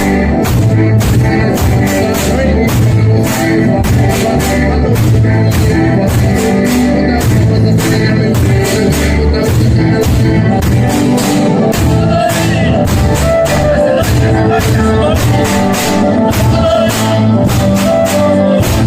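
Pastellessa music: singing over a fast, dense, steady beat of struck percussion, the traditional barrels, vats and sickles of a Pastellessa float band.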